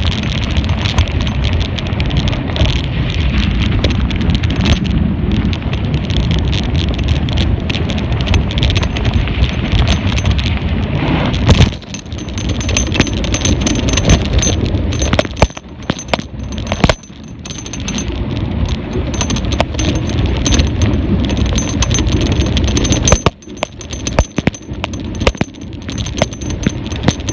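A mountain bike rattling and clicking over rough ground, with a steady rumble of wind on the microphone; the noise drops off briefly a few times.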